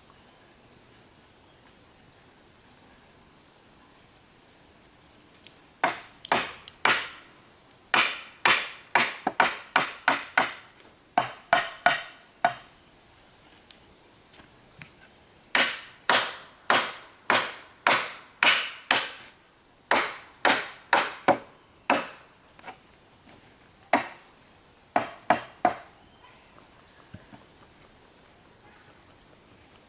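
Hammer blows on wood in runs of quick strikes, about two or three a second, with pauses between the runs. Insects chirr steadily and high-pitched throughout.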